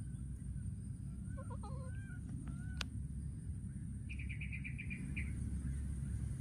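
Small birds chirping: a few short rising chirps, then a rapid trill of about eight quick notes a little past the middle, over a steady low rumble.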